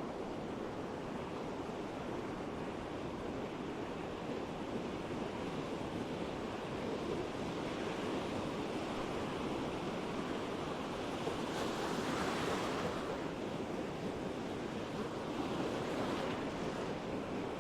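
Ocean surf on a beach: a steady wash of breaking waves, with a louder wave breaking about twelve seconds in and another near the end.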